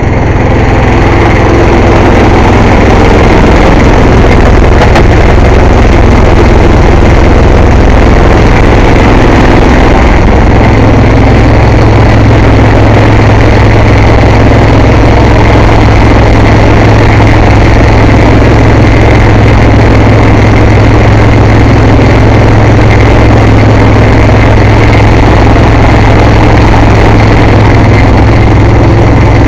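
Air compressor running loud and steady, with a deep engine-like hum. It comes up to full volume in the first second.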